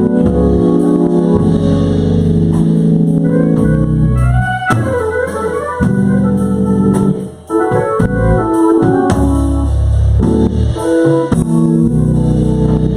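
Organ playing the instrumental introduction to a gospel song, with held chords that change every second or two and a brief drop in loudness about seven seconds in.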